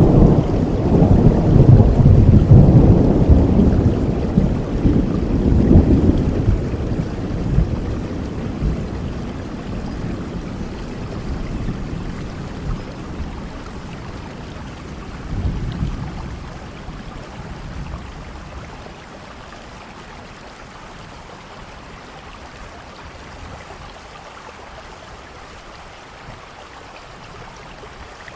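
Thunderstorm: a long roll of thunder rumbles loudly at the start and slowly dies away, with a brief smaller rumble about halfway through. After that a steady rain falls on its own.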